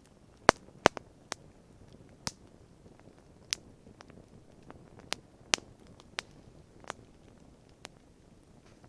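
Wood campfire crackling: irregular sharp pops, about a dozen, the two loudest within the first second.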